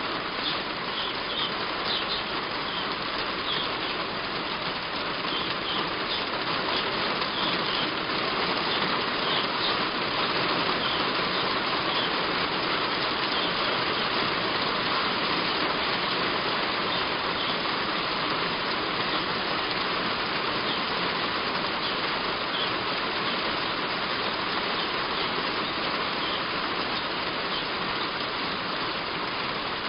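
Heavy rain falling steadily on a roof, an even hiss, with small birds chirping faintly and briefly in the first half.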